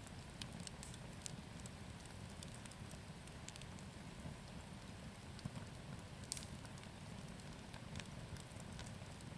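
Wood bonfire burning: a low steady rush of flames with scattered small crackles and pops.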